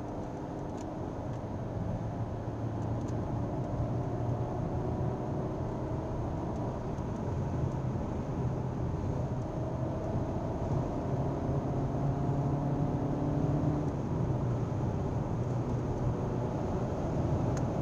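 Car engine accelerating hard, heard from inside the cabin over tyre and wind noise. The engine note climbs slowly in pitch and breaks off and starts lower again a couple of times, and it gets a little louder as the speed builds.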